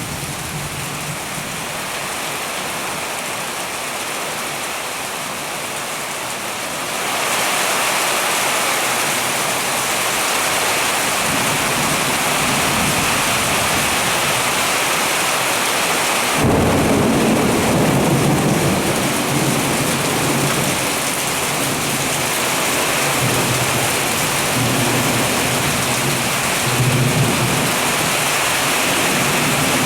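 Heavy rain pouring steadily, growing heavier about a quarter of the way in. About halfway a thunderclap breaks in suddenly and rolls on as a low rumble, with further rolls of thunder near the end.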